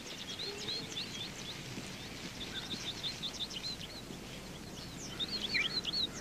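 Small birds chirping in quick runs of short, high calls over a steady faint hiss, with a louder cluster of calls near the end.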